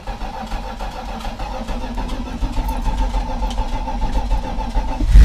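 The starter cranks the 1984 Dodge Ram's carbureted engine steadily with a whine, while a temporarily battery-wired fuel pump feeds it fuel. Near the end the engine catches and runs, much louder, after a hard start.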